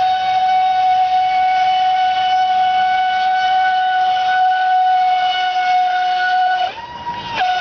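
Brushless electric motor and jet pump of an RC jet boat whining at a steady high speed. Near the end the whine briefly jumps higher in pitch and drops in level for under a second, then settles back to the same note.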